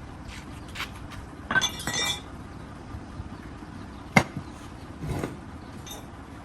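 Hard metal parts and tools clinking and knocking: a quick cluster of clinks about a second and a half in, one sharp strike about four seconds in, and a softer clink a second later.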